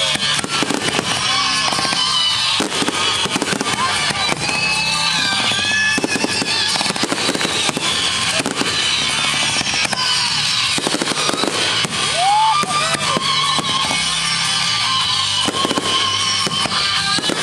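Fireworks display: a dense run of bangs and crackling, with several whistles gliding up and down in pitch, over music playing in the background.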